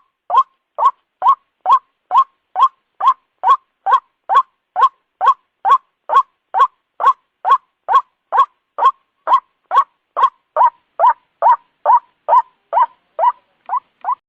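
White-breasted waterhen (ruak-ruak) calling: a steady run of short, clipped notes, about two a second, growing a little fainter near the end. It is a recorded call played as a lure for waterhens.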